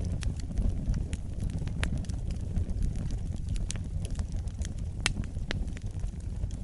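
Wood fire burning in a fireplace: a steady low rumble of flames with irregular sharp crackles and pops, the loudest pops about two, three and a half, and five seconds in.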